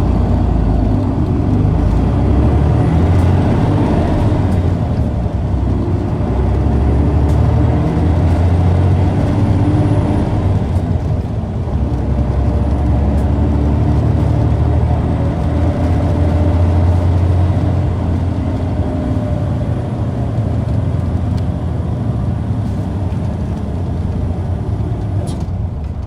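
Isuzu Erga city bus's six-cylinder turbo-diesel engine heard from inside the bus while driving, its note rising and falling several times as it accelerates and eases off. The recordist describes this engine as sounding a little abnormal.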